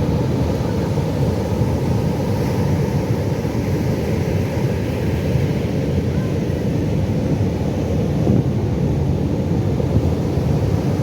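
Pacific Ocean surf: a steady low rumble of breaking waves, with no single crash standing out.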